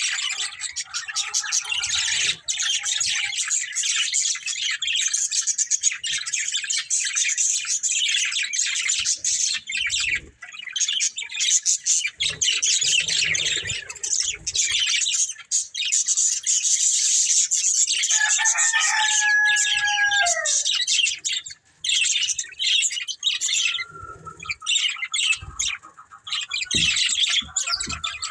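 Budgerigars chattering and warbling almost continuously in a fast, dense stream of high chirps. A couple of clearer whistled calls come about two-thirds of the way through, and there are a few soft low thumps now and then.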